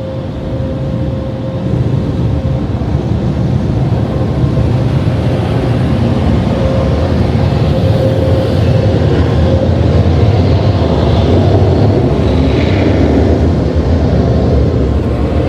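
Blowers of an Oasis Typhoon touchless car wash's onboard dryer running as the gantry passes over the car: a steady rush of air with a faint hum. It builds up about two seconds in and eases off near the end.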